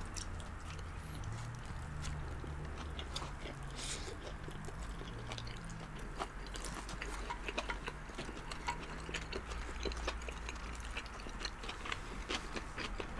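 Close-up chewing of takeout Chinese food: many small wet mouth clicks and smacks as chow mein noodles are slurped in and chewed.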